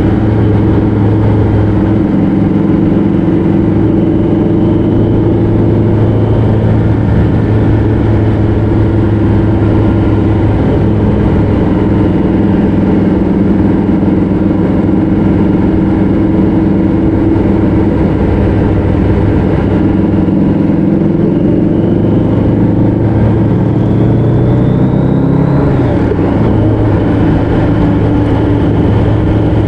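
Road vehicle engine running steadily under way. Near the end its pitch climbs, then drops suddenly, as with a gear change.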